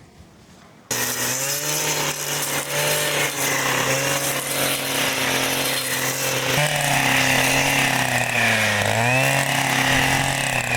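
A small motor-driven machine, such as a petrol power tool, running steadily. It starts abruptly about a second in, and its pitch dips briefly and recovers near the end.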